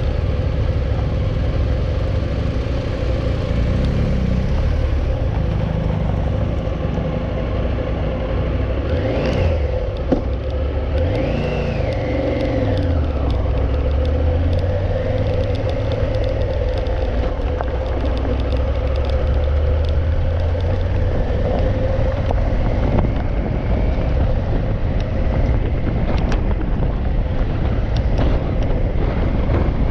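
Motorcycle engine running steadily on the move, with a constant low rumble and wind noise; its pitch rises and falls briefly a few times about a third of the way in.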